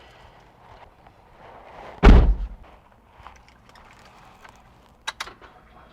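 A single loud slam of a car's bodywork being shut, followed about three seconds later by two sharp clicks.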